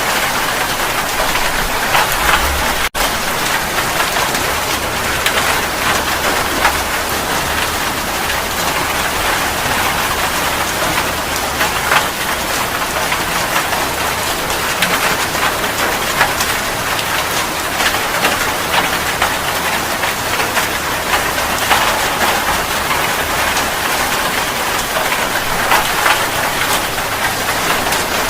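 Steady rain falling, with many individual drops striking a surface. A low rumble sits underneath through the first half, and the sound cuts out for an instant about three seconds in.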